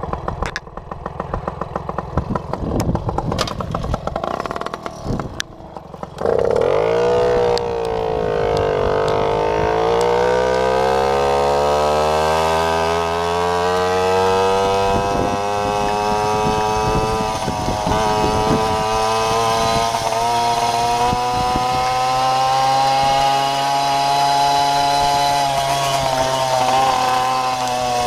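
Jawa Babetta moped's 50 cc two-stroke single-cylinder engine. For the first few seconds it runs unevenly at low revs amid knocks. About six seconds in it opens up sharply: its pitch dips briefly, then climbs steadily and holds high near the end.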